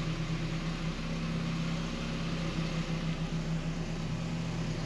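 A 1986 Volkswagen Scirocco's four-cylinder engine idling steadily, an engine that starts readily.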